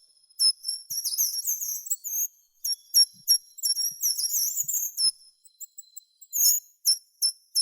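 A small songbird singing high, rapid twittering phrases in bursts with short pauses, thinning to scattered single notes near the end.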